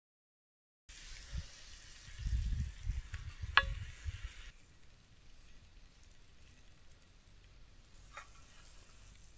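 Food sizzling as it fries in a pan, starting about a second in, with low knocks and a sharp click partway through. The sizzle falls to a faint hiss about halfway, with one more click near the end.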